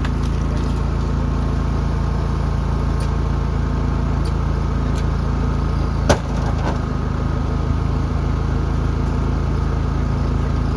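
Off-road 4x4 vehicle's engine running steadily at low revs, with a single sharp knock about six seconds in.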